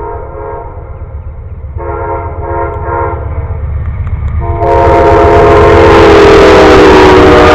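Locomotive horn blowing for an approaching train: a blast that ends just after the start, a short one about two seconds in, then a long, loud blast from about four and a half seconds in, dropping slightly in pitch near the end. From about four and a half seconds in, the rush and rumble of the train passing close by sounds with it.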